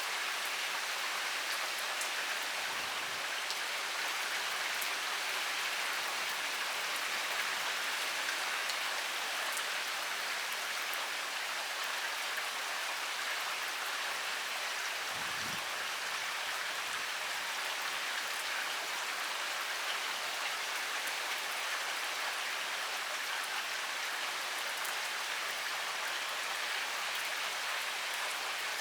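Heavy rain falling steadily, a dense even hiss of drops with small ticks of individual drops on top.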